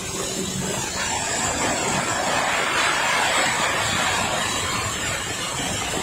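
Corn-cracking machine running with a loud, steady mechanical rush, swelling louder for a few seconds in the middle.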